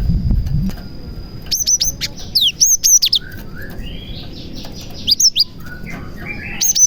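Cinereous tit (gelatik batu) singing: short bursts of sharp, quick down-slurred whistles repeated in groups, with softer buzzy phrases between them. A low rumble sounds in the first moment before the song starts.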